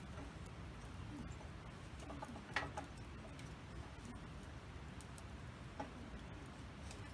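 Wood campfire crackling softly, with a few scattered sharp pops over a low steady rumble; the loudest pop comes about two and a half seconds in.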